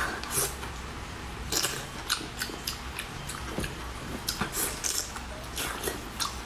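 A person biting into and chewing a cooked, sauce-covered octopus tentacle close to the microphone, with many short, irregular mouth clicks and smacks.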